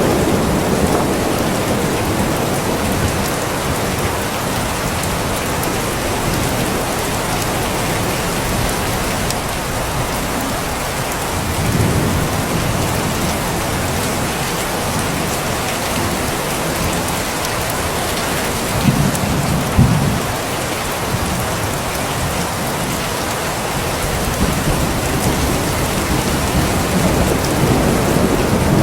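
Steady heavy rain, an even hiss of drops, with a few low rumbling swells rising out of it, briefly near the middle and again about two-thirds through.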